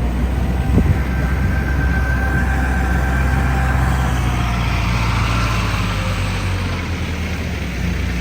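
Rice harvester's engine running steadily under load, with fainter whining tones from its machinery above the engine's low drone and a single knock about a second in.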